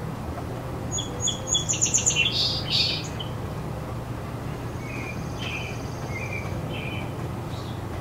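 A songbird singing: a run of high notes that speeds up and grows louder, ending in a loud flourish just before three seconds in, then softer chirps a couple of seconds later. A steady low rumble lies underneath.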